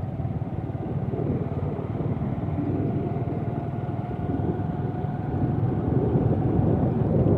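Tractor's diesel engine running steadily with a fast low chugging, getting slightly louder near the end.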